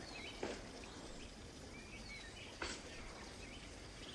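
Birds chirping faintly over a steady outdoor hiss, with two sharp clicks, about half a second and two and a half seconds in.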